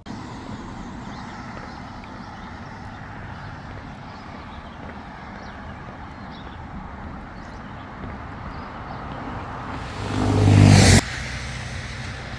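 Steady outdoor background noise with a motor vehicle's engine swelling loudly near the end as it passes close. The engine sound then cuts off abruptly.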